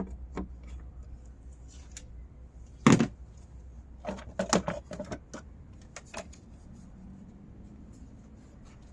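Plastic engine cover being unclipped and lifted off: a sharp knock about three seconds in, then a quick run of clunks and rattles, with one more click a little later.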